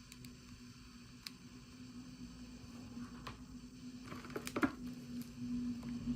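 A few faint, sharp clicks and a short rustle of small plastic toy packaging being handled, loudest about four and a half seconds in, over a steady low hum.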